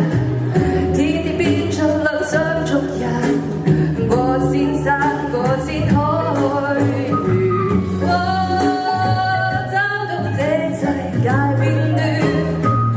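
A solo voice singing a song over backing music, the melody wavering and gliding between held notes.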